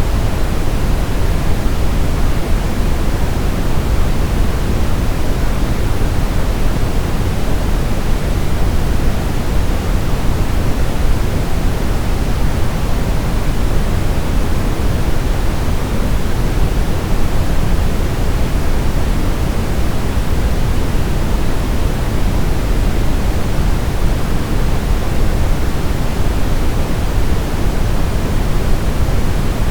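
Brown noise: a steady, deep hiss, strongest in the low end and falling off toward the highs, without any change.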